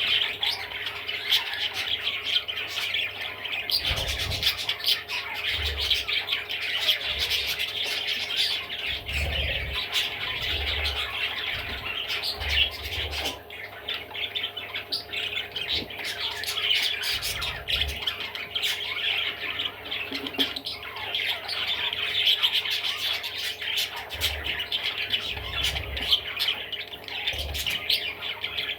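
Budgerigar warbling and chattering nonstop, a dense stream of rapid chirps, clicks and squawks, with occasional dull low thumps.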